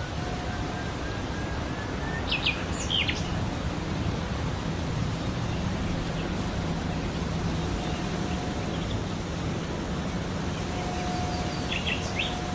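Steady outdoor background noise with a few short bird chirps, a couple of seconds in and again near the end.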